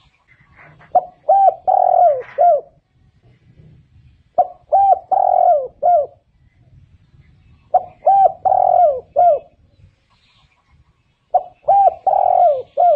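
Spotted dove cooing: four phrases, each a quick run of about four coos, repeated roughly every three and a half seconds.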